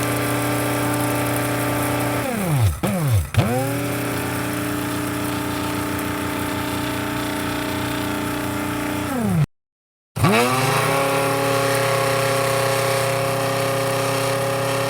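Electric coffee grinder motor running at a steady whine. About two and a half seconds in it is quickly stopped and restarted twice, its pitch dropping and climbing back each time; near the middle it winds down into a moment of dead silence, then spins back up and runs on.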